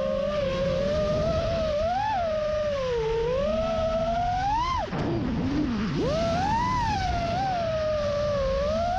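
FPV quadcopter's brushless motors and propellers whining, the pitch rising and falling with the throttle. About halfway through the whine drops away sharply as the throttle is chopped, then climbs back up within a second. Wind rush runs underneath.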